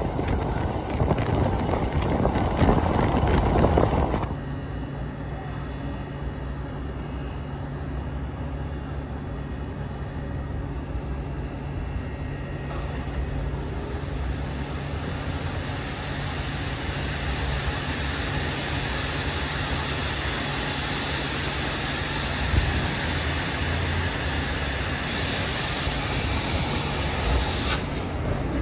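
A steam-hauled passenger train rolling along the track, heard from the carriage. About four seconds in it gives way abruptly to a steady low hum and a hiss that grows louder while the train stands at a station platform.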